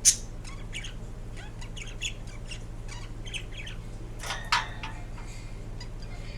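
Indian ringneck parakeet making a string of short, quick chirps and clicks, with a sharp loud chirp at the start and a louder squawk about four seconds in, over a steady low hum.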